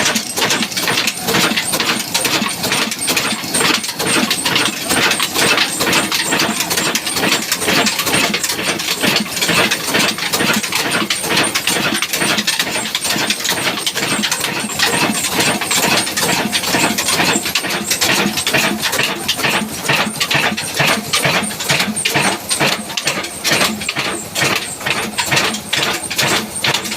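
Old black diesel engine running steadily, with a fast, even beat of firing strokes.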